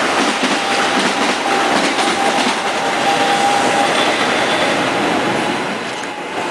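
A passing train: steady wheel-and-rail noise, with a faint thin whine through the middle. It eases off briefly near the end.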